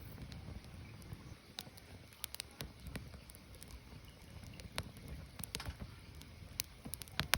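Firewood burning: irregular sharp crackles and pops from the burning wood, one louder pop near the end, over a low steady rumble.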